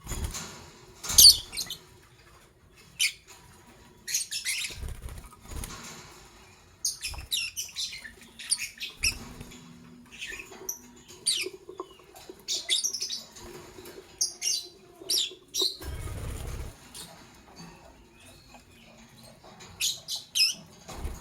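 Lovebirds chirping: clusters of short, sharp, high chirps coming in quick runs, with a few soft low thuds and rustles between them.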